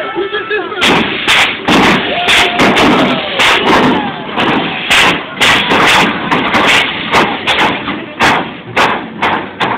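A bagged mini truck's air suspension firing in a rapid run of short, sharp hissing bursts, several a second, as the truck is hopped, over crowd noise.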